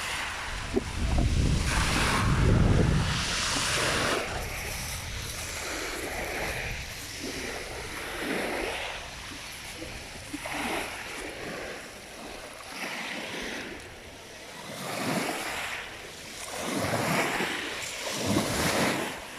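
Small sea waves washing onto the shore in repeated swells, one every two seconds or so, with wind buffeting the microphone in the first few seconds.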